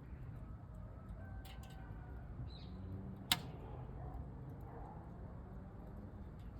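Wood fire burning in a small steel camping stove with a glass front, crackling with scattered faint clicks and one sharp pop about a third of the way in, over a low steady rumble.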